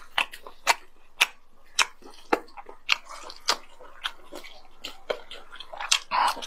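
Close-miked chewing and biting of grilled squid: sharp, wet mouth clicks about twice a second, with a denser cluster near the end.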